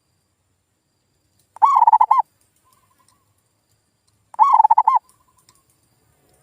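Male zebra dove singing: two short bursts, about two and a half seconds apart, each a quick run of rolling coos around one pitch, with a soft faint coo between them.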